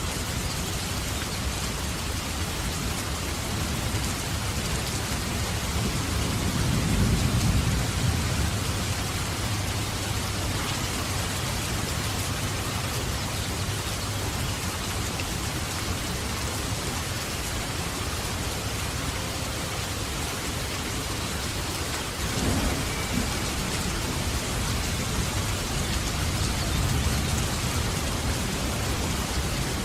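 Steady heavy rain, with low rolls of thunder rumbling about a quarter of the way in, again about three quarters through, and briefly near the end.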